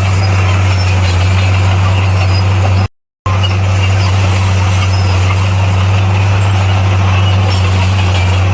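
Bulldozer's diesel engine running steadily with a deep, unchanging drone. The sound cuts out completely for a moment about three seconds in, then comes back the same.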